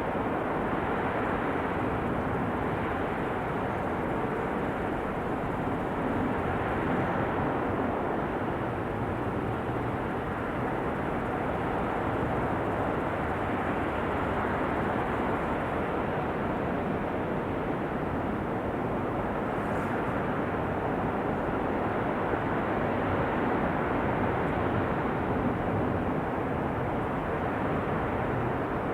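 Flowing river water making a steady, even rush with no let-up.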